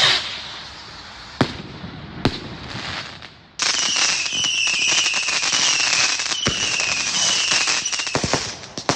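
Fireworks going off: a loud burst fading away, then two sharp bangs. About three and a half seconds in, a dense crackling starts suddenly, carrying a repeated, slightly falling whistle, and it breaks up into scattered pops near the end.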